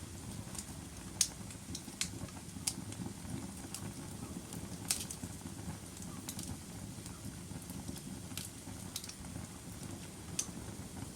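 Log fire burning in a fireplace: a low steady rumble of flames with irregular sharp crackles and pops, the loudest about a second in and again about five seconds in.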